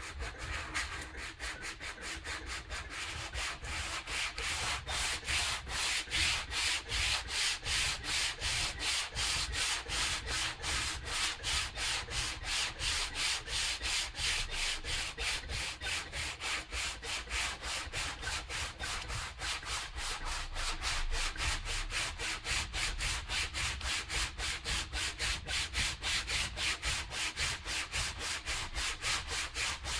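Hand sanding with sandpaper, taking old paint and finish off: steady back-and-forth rubbing strokes, about three a second.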